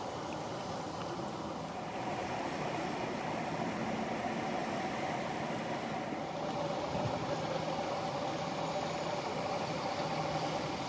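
A vehicle engine idling steadily, a low even hum that gets slightly louder about two seconds in.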